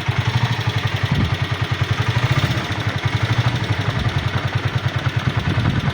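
Small single-cylinder motorcycle engine running with a steady, rapid low putter.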